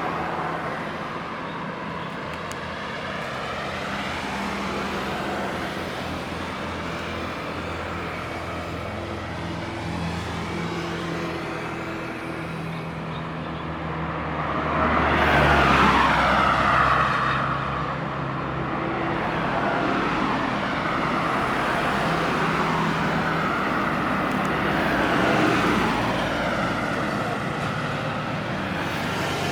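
Road traffic: cars and motor vehicles passing, with a steady background rumble. One vehicle swells to its loudest about halfway through and then fades.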